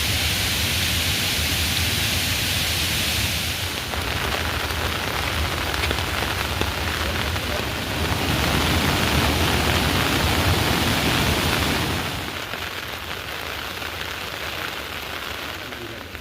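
Heavy rain falling, a dense steady hiss. It changes abruptly about four seconds in and grows quieter about twelve seconds in.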